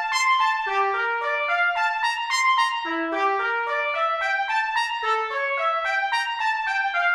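Trumpet playing a quick melody of single, separate notes.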